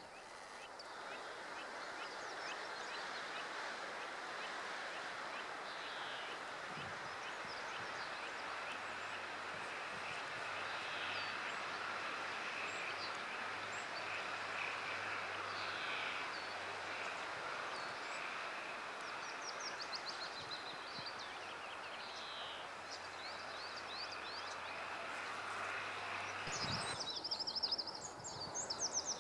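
Small birds singing and chirping over a steady rushing background of outdoor noise, with a run of quick repeated chirps near the end.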